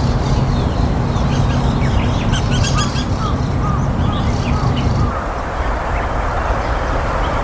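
Small birds chirping and calling in short repeated notes over steady outdoor background noise, with a low hum underneath that stops about five seconds in.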